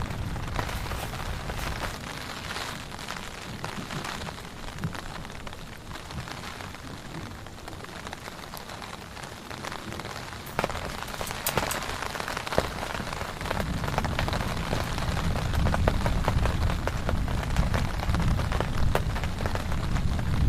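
Heavy rain falling steadily, with many sharp drop taps over the hiss. A low rumble swells in the last third.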